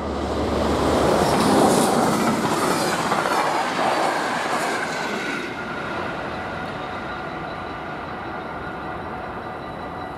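A train running past on the line at the level crossing, wheels clattering over the rails, loudest about two seconds in and dying away after about five seconds. Steady ringing tones continue underneath.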